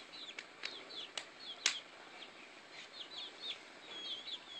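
Chickens chirping: a steady run of short, high chirps, each falling in pitch, with three sharp clicks in the first two seconds.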